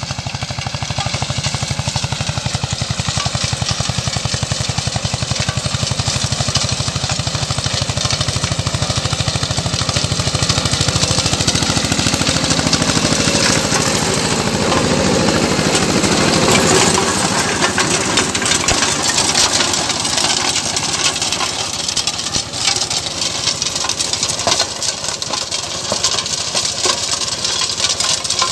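Eicher 188 mini tractor's single-cylinder diesel engine running with a fast, even chug. About halfway through the sound changes and grows a little louder, then turns rougher and less even.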